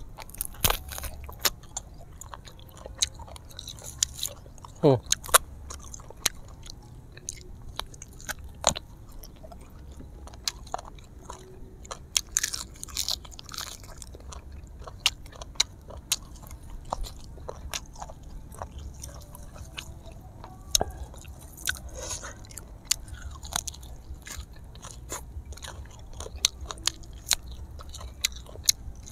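A person biting and chewing grilled duck picked off the bone by hand, close to the microphone, with many irregular sharp crackles and crunches.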